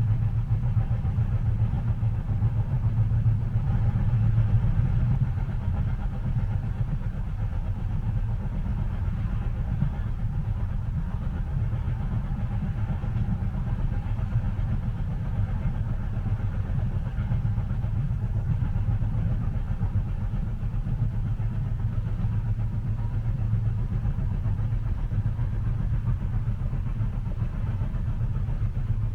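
Steady low rumble of a moving train heard from inside the passenger cabin, with a faint hiss above it and no distinct track clicks.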